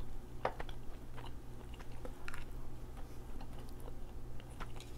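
Close-up chewing of soft food, with a few light, sharp clicks and smacks spaced irregularly, over a low steady hum.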